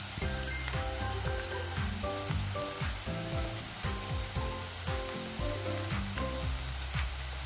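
Frozen shoestring fries sizzling in hot oil in a small frying pan, still pale early in the fry, mixed with background music that has a steady beat.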